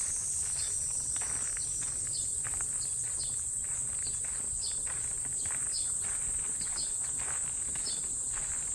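Cicadas buzzing in a steady, high-pitched drone in summer trees. Short high chirps cut through it about once a second.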